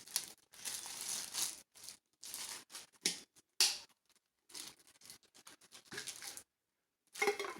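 Packaging being handled and torn open in irregular crinkling, tearing bursts as a tumbler is unwrapped, with a sharp click about three and a half seconds in.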